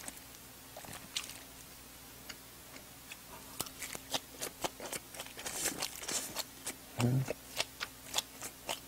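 Close-miked chewing of chive kimchi, heard as a run of short, wet mouth clicks that thicken after the first few seconds. There is a brief hum from the eater about seven seconds in.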